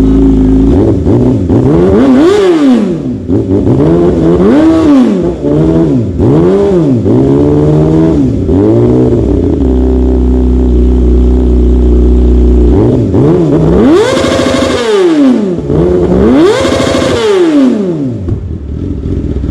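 Motorcycle engine idling and being revved by hand: a run of about four quick blips, a few seconds of steady idle, then two bigger revs that rise and fall back near the end.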